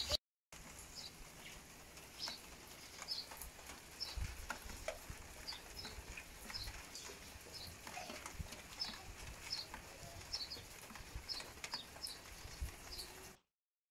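A small bird chirping again and again in short high notes, about once or twice a second, over a faint hiss and scattered taps of light rain; all sound cuts off suddenly near the end.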